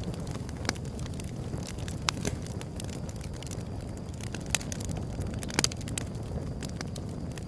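Wood fire burning: a steady low rumble with scattered sharp crackles and pops, several close together a little past halfway.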